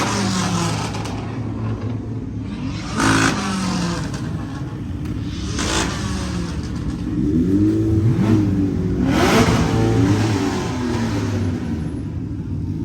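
Car engines idling with several revs that rise and fall in pitch, the busiest revving about eight to ten seconds in.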